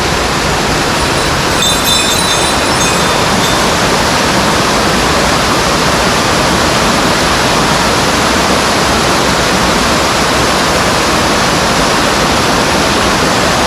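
Mountain stream water rushing steadily over rocks. About two seconds in, a thin high-pitched whine lasts under two seconds.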